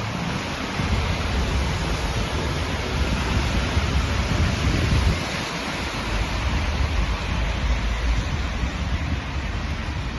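A steady rush of heavy rain and running water, with a low rumble underneath.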